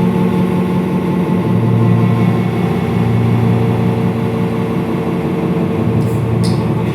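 Experimental noise-music drone: a dense, steady low hum with several held tones layered over it, and a couple of short high clicks near the end.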